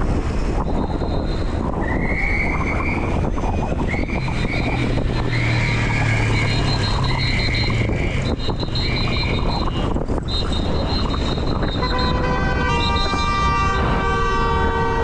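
Steady wind and road noise while riding a bicycle at night. In the middle a run of short high-pitched tones repeats about once a second, and from near the end a sustained tone with several pitches at once comes in.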